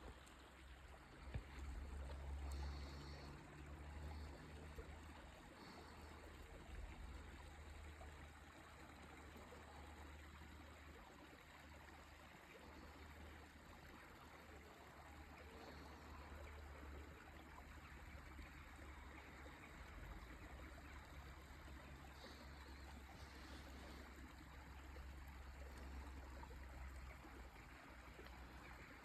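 Faint steady running water of a stream, over a low rumble.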